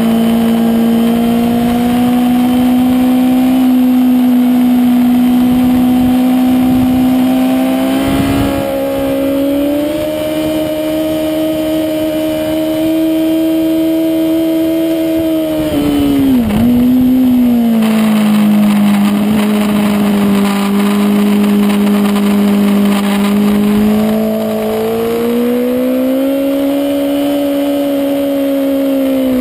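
Honda CBR1000RR sportbike's inline-four engine pulling under load at track speed, heard from onboard. Its pitch holds steady, climbs twice and dips sharply for a moment about halfway through, as when the throttle is rolled off or a gear is changed.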